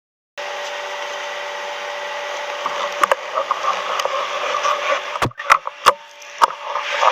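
A steady hiss with several sharp clicks and knocks, one around three seconds in and a cluster between five and six and a half seconds.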